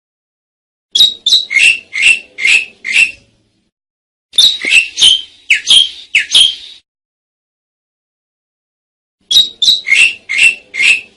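Asian pied starling (jalak suren) calling: three loud bouts of five to seven repeated notes, about three a second, with short silences between the bouts.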